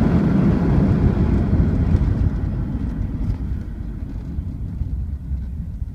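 Subaru Impreza 1.6TS's flat-four engine and road noise fading away steadily as the car slows after full-throttle acceleration, the sound growing duller as it drops.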